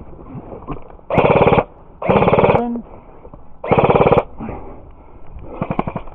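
Airsoft guns firing in rapid full-auto bursts: three loud bursts of about half a second each, close by, then two fainter bursts near the end.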